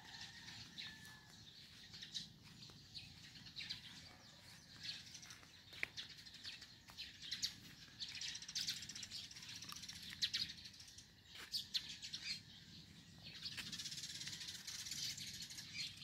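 Birds chirping and twittering: many short high calls throughout, with two longer stretches of rapid trilling, about eight seconds in and again near the end.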